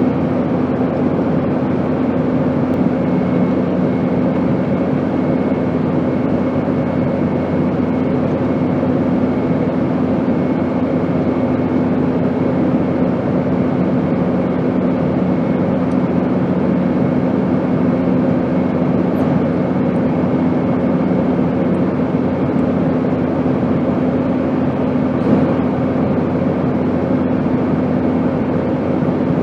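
Steady airplane drone: an even rushing noise with a few constant hum tones underneath. A lower hum joins about three seconds in and drops away again about twenty-two seconds in.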